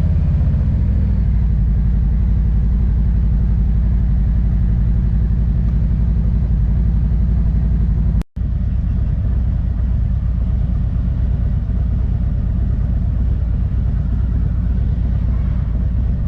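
Harley-Davidson motorcycle's V-twin engine running steadily with a deep low rumble. The sound drops out briefly about eight seconds in.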